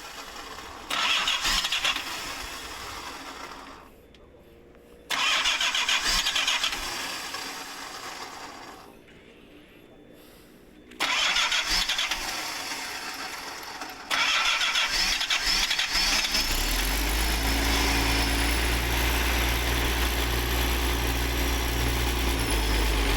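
Isuzu 6BG1 six-cylinder diesel engine in an excavator being cranked on the starter: three short attempts that die away, then a fourth about fourteen seconds in on which it catches and settles to a steady, smooth idle.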